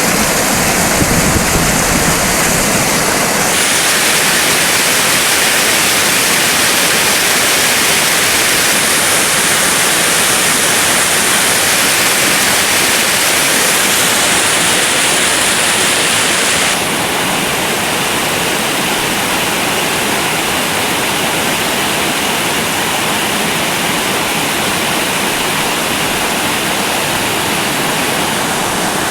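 Waterfall: a loud, steady rush of falling water, whose tone shifts abruptly twice.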